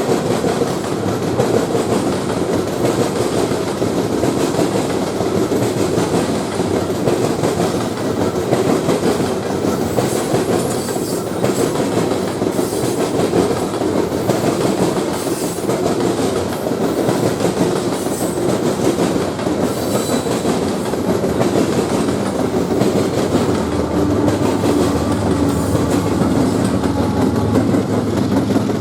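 Railroad cars rolling past on the rails in a steady rumble, with wheels clicking over rail joints. A low steady hum comes in near the end.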